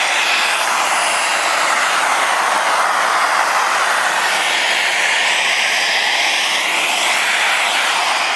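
Festool CTM 55 mobile dust extractor running, a loud steady rush of air with a tone that shifts slightly up and down.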